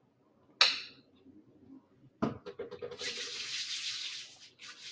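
Hands being cleaned for hand hygiene: a short sharp hiss, a knock a little after two seconds in, then a steady hiss of about a second and a half that breaks up into uneven rubbing.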